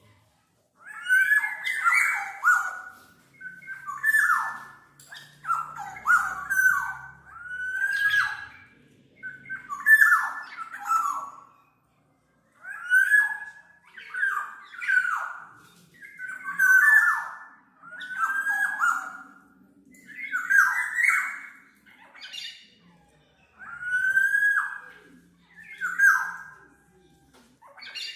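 Black-naped oriole (kepodang mas) calling: short phrases of falling whistled notes, repeated every second or two, with a brief pause a little before the middle.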